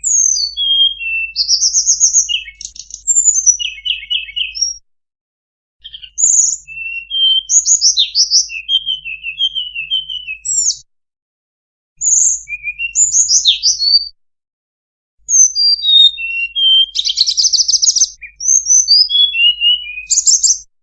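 Tledekan (a Cyornis blue flycatcher) song played as a bird-trapping lure call: bursts of rapid, high twittering chirps and trills, cut off abruptly to silence three times, with a faint low hum under the song.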